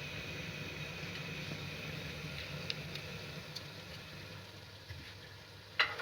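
A steady low machine hum that weakens a little after the middle, with a few faint ticks and one sharp knock near the end.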